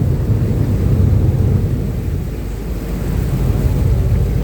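Uber Boat river catamaran underway at speed: a steady low rumble of its engines and rushing water, with wind buffeting the microphone on the open deck. It eases slightly about halfway through.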